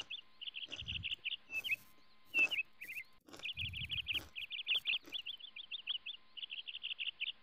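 A small bird chirping in fast runs of short, high notes, phrase after phrase with brief pauses, with a few sharp clicks and a low thump or two underneath.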